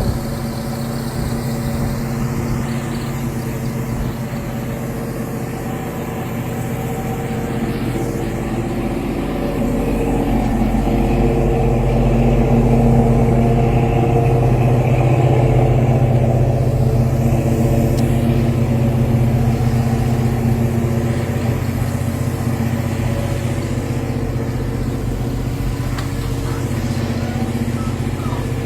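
A 1972 Chevrolet Chevelle SS's GM 502 big-block V8 running steadily. It grows louder about a third of the way in and eases off a little later.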